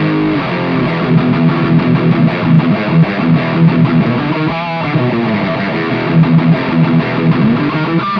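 Electric guitar played through a Nux Cerberus pedal with its overdrive and distortion sections both switched on and stacked, in the first of its routing modes: driven chords and lead notes with string bends and vibrato.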